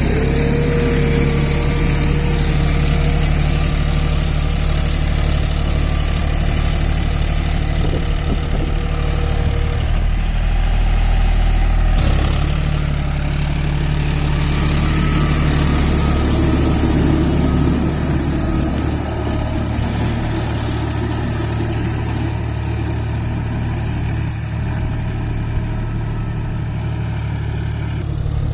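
John Deere 5050D tractor's diesel engine running steadily, its note shifting a little about twelve seconds in.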